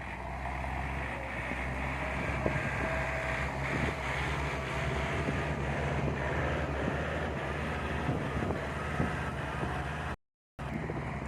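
Tractor engine running steadily under load while plowing a rice field, with a brief gap in the sound near the end.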